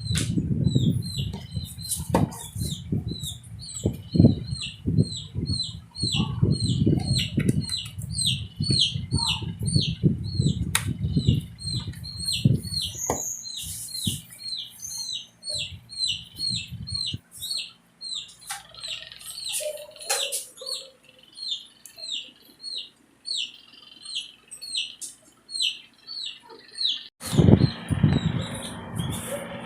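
A baby chick peeping over and over, short high falling peeps about three a second. Low handling thumps and rustles run under it for roughly the first half and come back near the end.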